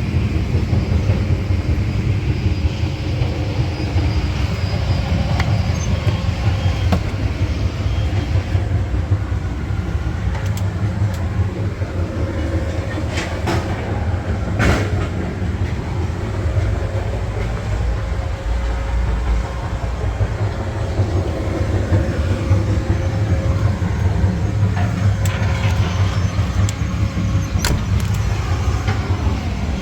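PACCAR PX-9 8.9-litre inline-six diesel in a Peterbilt 348 truck running steadily, with a few sharp clicks along the way.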